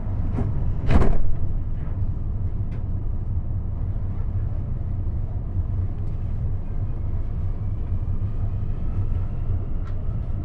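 Metro car doors shutting with a thud about a second in. Then the CAF AS-14 metro train pulls away: a steady low rumble, with a faint whine rising as it gathers speed.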